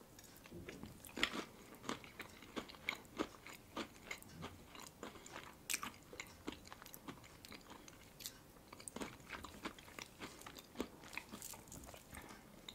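Close-up chewing of a crisp pastry tartlet topped with salmon: a run of small crunches and wet mouth clicks, with the sharpest crunch about a second in.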